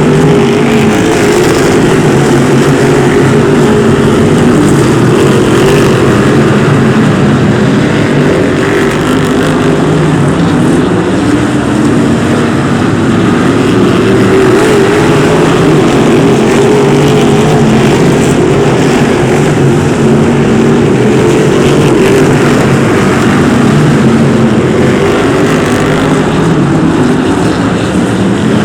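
Several V8-engined Brisca F1 stock cars racing round the oval, engines held at high revs, their pitches wavering and overlapping as the pack circulates.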